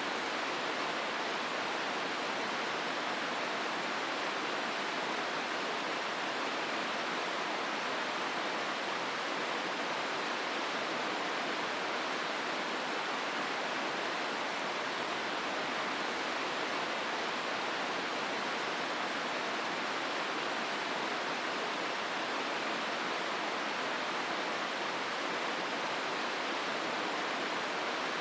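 Hozu River water flowing steadily through the gorge, a constant even rush with no breaks.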